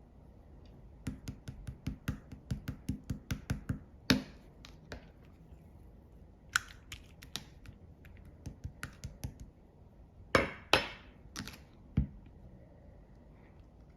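Slime being squeezed and poked, making a quick run of sharp clicks and pops, about five a second, from about one to four seconds in, then scattered clicks and three louder pops near the end.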